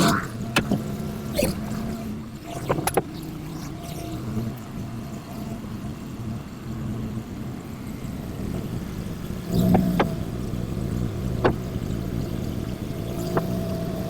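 Semi-truck diesel engine running steadily at low revs, with a few short knocks and clunks over it. The loudest clunks come about ten seconds in.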